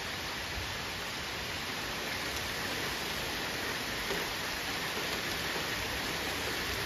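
Steady rain falling on trees and leaf-covered ground, an even hiss.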